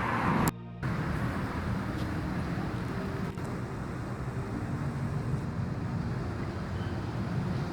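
Steady low background rumble, broken by a short dropout about half a second in.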